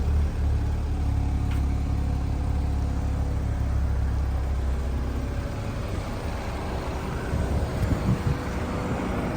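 A BMW 228i's turbocharged four-cylinder engine idling with a steady low hum. A little past halfway the steady hum gives way to an uneven low rumble with a few louder bumps.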